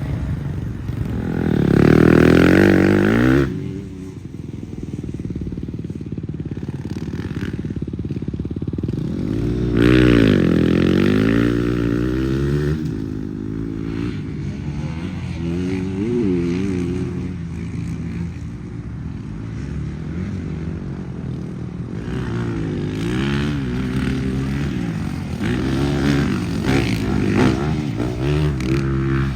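Dirt bike engine riding a motocross track, its pitch climbing and falling again and again as the throttle is opened and shut. It is loudest in hard pulls about two seconds in and again around ten seconds in.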